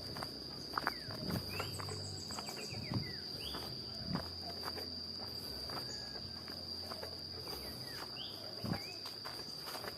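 Insects, crickets or cicadas, keeping up one steady high-pitched trill, with scattered footsteps and a few short bird chirps.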